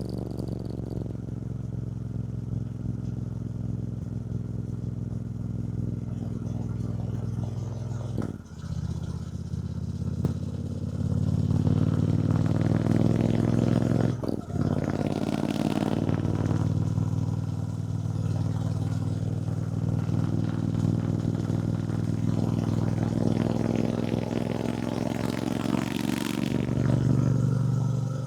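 2024 Triumph Bonneville T120's 1200 cc parallel-twin engine running under way, heard from the rider's position. The note dips briefly twice, about a third and halfway through, and runs louder after the first dip.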